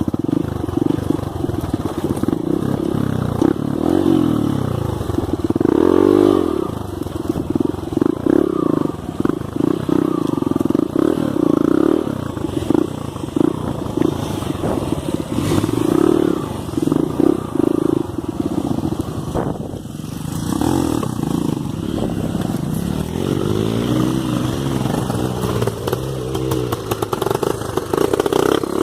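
Dirt bike engine running under load, revving up and down unevenly with choppy throttle pulses, easing off briefly about two-thirds of the way through.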